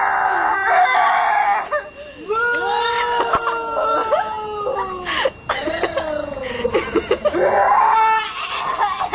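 Two or more people's voices making long, wailing mock-animal cries that slide up and down in pitch and overlap one another, with a brief break about two seconds in.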